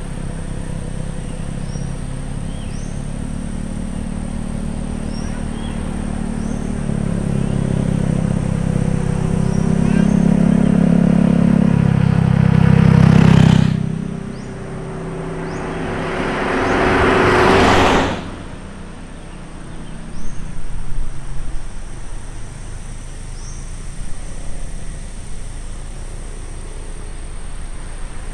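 Road vehicle going by: a low engine drone grows louder over the first half and drops away about 13 seconds in, then a rush of noise swells to a peak and cuts off sharply near 18 seconds. A steady high whine and short high chirps every second or two run under it.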